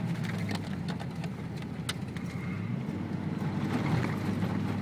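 Ford Bronco prerunner driving a rough dirt trail: the engine runs at a steady hum while scattered knocks and rattles come from the bumpy road.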